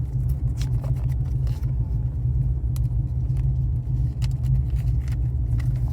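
Car engine idling: a steady low rumble, with a few faint clicks over it.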